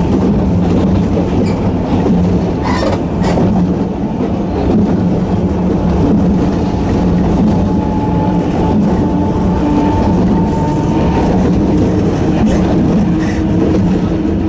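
Narrow-gauge Sangi Railway Hokusei Line electric train running steadily, with the hum of its nose-suspended traction motors and wheels clicking over the rails.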